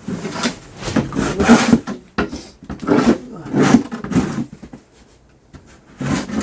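Snow shovel scraping and pushing through packed snow in several strokes, then a pause near the end before another stroke.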